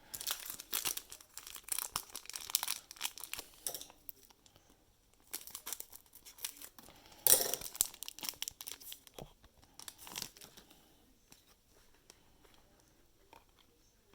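Plastic trading card pack wrappers crinkling and tearing as packs are opened and handled, in irregular bursts, the loudest a little after seven seconds; quieter small clicks and rustles from handling the cards for the last few seconds.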